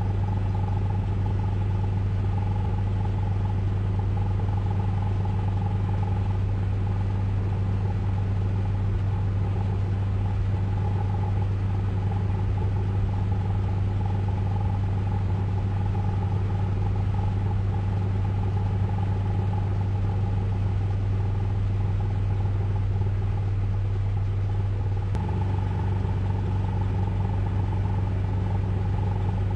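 Ryko Radius automatic car wash running with a steady low mechanical hum and a fainter higher tone over a light hiss; the sound shifts slightly near the end.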